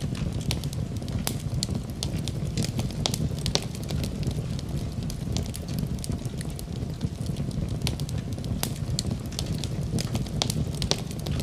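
Fire burning in a fireplace: a steady low rumble of flames with frequent, irregular crackles and pops.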